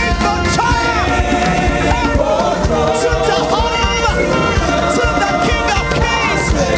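Live gospel praise music: voices singing over a full band with drums, with a crowd singing along.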